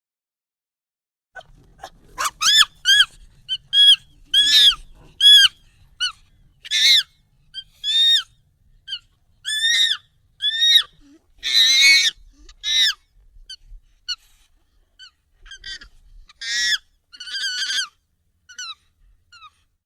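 Monkey calls sped up and pitched up: a string of short, high, arching calls, some in quick pairs, starting about a second and a half in, with a longer, louder call about twelve seconds in.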